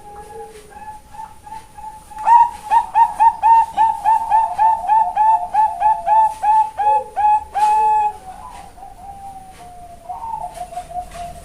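Female zebra dove (Bangkok perkutut) calling: a few soft coos, then a loud, fast run of about twenty short staccato coos, roughly three or four a second, that fades into quieter trailing notes near the end.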